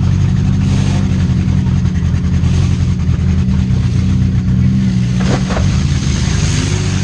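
2001 Subaru Outback's flat-four engine revving hard and held at steady high revs, with a short clatter about five seconds in.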